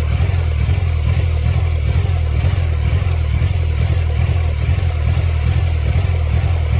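1999 Mercedes-Benz C230 Kompressor's supercharged four-cylinder engine running, with a loud, low, uneven throb. The car has a serious engine fault, with the check engine light flashing.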